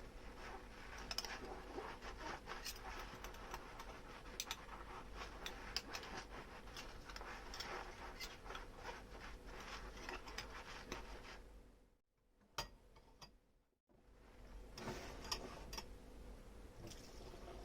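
Hand dishwashing: dishes and utensils clinking lightly against each other, with soft scrubbing over a quiet hiss. It stops for about two seconds around twelve seconds in, with one clink in the pause, then carries on.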